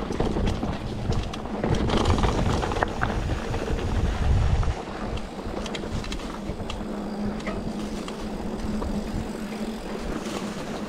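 Mountain bike being ridden down a dirt trail: scattered clicks and rattles from the tyres and drivetrain over a steady hum, with heavy wind rumble on the microphone for the first few seconds that drops away about five seconds in.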